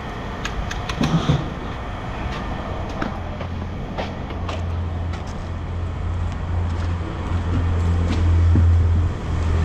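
A steady low engine drone that grows louder over several seconds and dips near the end, with scattered short knocks and clinks over it.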